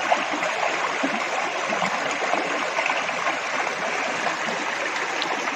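Flowing water, such as a stream, making a steady, even rushing sound.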